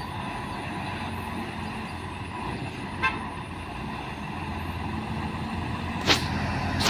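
Diesel engine of a heavily loaded truck labouring up a steep climb, a steady low rumble. A short toot comes about three seconds in, and two sharp bursts come near the end.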